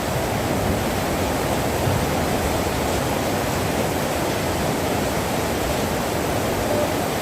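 Rain falling steadily: a dense, even rushing noise with no breaks.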